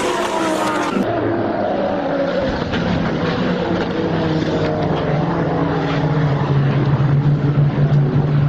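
A vehicle engine running steadily over road noise, its pitch rising slowly. The sound changes abruptly about a second in.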